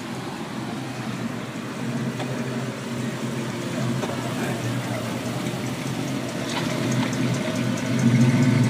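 Cars pulling away at low speed, engines running with a steady low note. A Chevrolet Corvette convertible's V8 drives off, and an engine grows louder near the end as a red 1930s-style hot rod coupe passes close.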